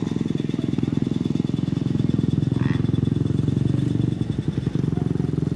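A small motorcycle engine running close by with a fast, steady putter, briefly faltering about four seconds in.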